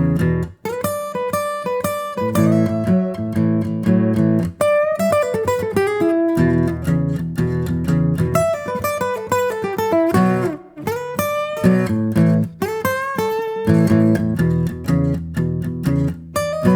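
Background music: an acoustic guitar played with plucked notes and strummed chords, in a steady rhythm.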